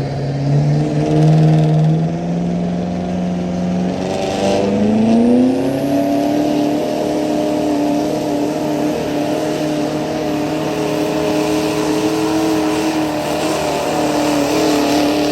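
Pulling truck's engine revving hard, its pitch climbing in steps and then sweeping up sharply about five seconds in before holding steady at high revs.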